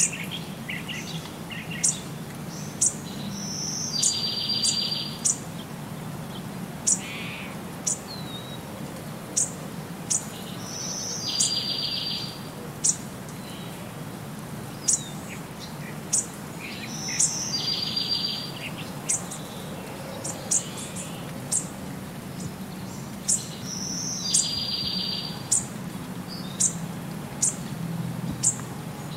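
Birdsong: sharp high chirps at irregular intervals, and a short buzzy trill that comes back about every seven seconds, over a low steady hum.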